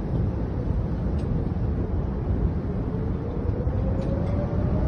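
Storm wind near a tornado roaring and buffeting a phone's microphone, a loud, even rumbling noise, with a faint tone rising slowly in pitch from about three seconds in.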